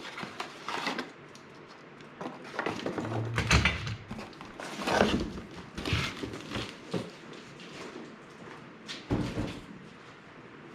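Metal mobile-base parts and casters being handled and set down, giving irregular knocks, clinks and clatter with rustling between.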